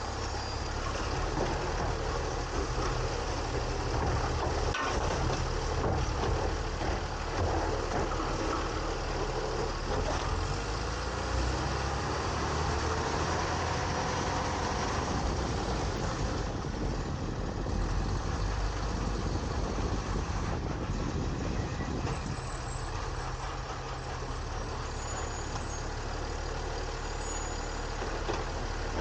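Garbage truck (Autocar ACX with a New Way Sidewinder side-loader body) running, its engine humming steadily under the mechanical noise of the hopper and arm at work. The working noise is busiest in the first half and eases off, leaving mostly the engine running near the end.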